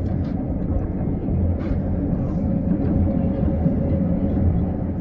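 Steady low rumble of a train running along the track, heard from inside the passenger carriage.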